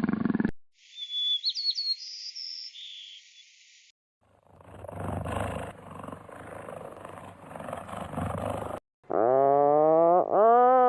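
A run of different animal calls joined by hard cuts: the tail of a loud call, a short high chirp, a rough noisy stretch, then loud calls that rise in pitch near the end.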